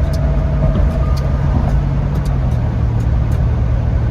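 Car engine and road noise heard from inside the cabin while driving, a steady low hum whose pitch drops slightly a little over two seconds in.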